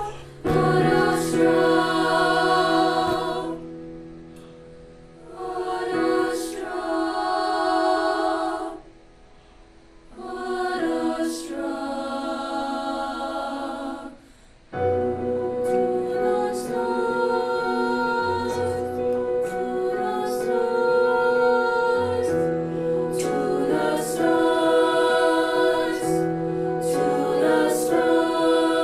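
A school choir singing in phrases, with brief pauses about four, nine and fourteen seconds in, then singing without a break to the end.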